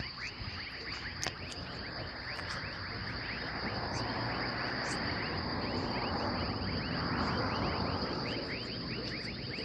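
Steady high-pitched insect trill with many quick, short falling chirps over it; a rushing noise swells and fades in the middle.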